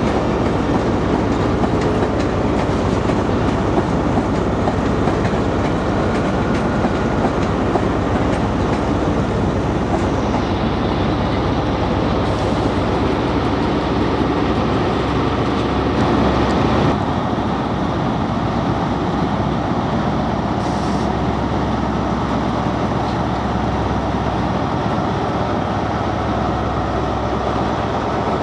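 Trains at a station platform: a Class 365 electric unit runs out over the rail joints, with the steady diesel running of a Class 43 HST power car underneath. The sound drops a little about 17 seconds in.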